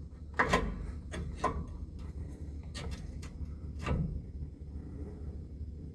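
A handful of separate short clicks and knocks, about seven in the first four seconds, from tools and parts being handled during work on a pickup's front torsion-bar key, over a steady low hum.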